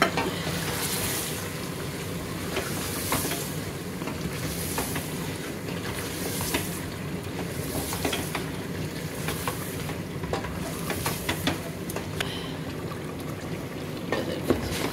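Chicken, tomatoes and spices sizzling in hot oil in a pressure-cooker pot as the masala is fried and stirred. A spatula scrapes and knocks against the pot in repeated strokes, about one every second and a half.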